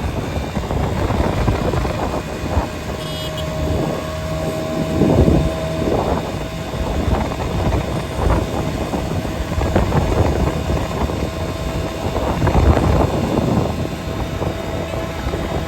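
Steady low rumble of a vehicle moving along a road, with louder rushing surges every few seconds.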